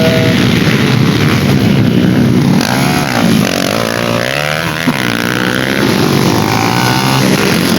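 Motorcycle engines running on a dirt race track, with the pitch rising and falling in several quick revs around the middle.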